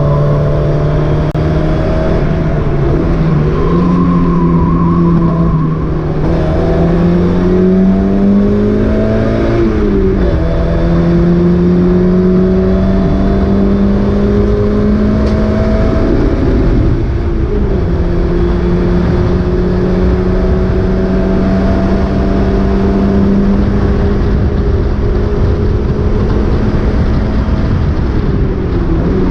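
Mazda MX-5 race car's four-cylinder engine running hard at high revs, its pitch climbing slowly, with quick upshifts about ten seconds and seventeen seconds in and again near the end. The car is racing with a misfire.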